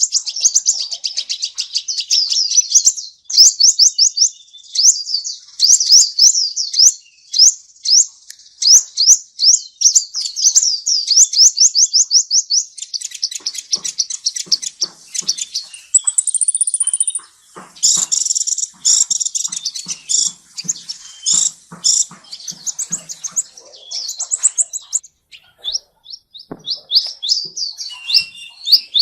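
Songbird singing loudly in fast, repeated series of high, sweeping chirps and trills with brief pauses between phrases. In the second half, faint knocks or clicks sound under the song.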